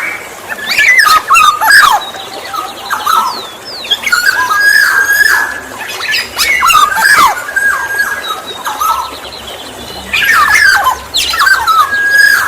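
Black-naped oriole calling: loud whistled notes mixed with rougher, harsher calls, coming in three bouts with short quieter gaps between.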